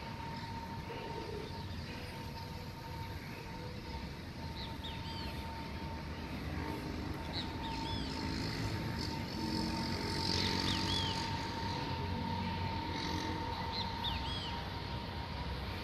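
Steady droning tone of unknown origin, the so-called 'sky trumpets' sound. A cluster of lower tones swells beneath it in the middle and then fades. Small birds chirp now and then over it.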